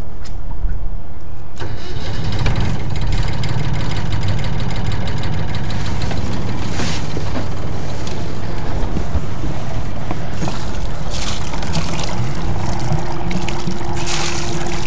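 Volvo Penta MD2020 two-cylinder marine diesel starting up and then running steadily, loud and close.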